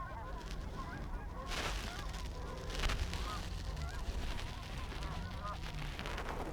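A flock of Canada geese honking and cackling, many short calls overlapping, with two brief rushes of noise about one and a half and three seconds in.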